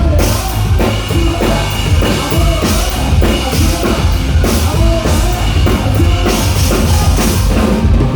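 Live rock band playing loud, with a full drum kit (kick and snare) keeping a steady driving beat under the band.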